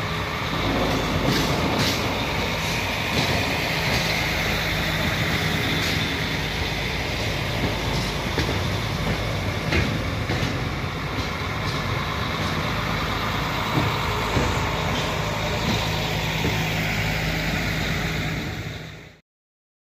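Engineering train passing slowly: a steady engine hum under the rumble of wheels on rail, with a few sharp clicks from the wheels. The sound cuts off abruptly near the end.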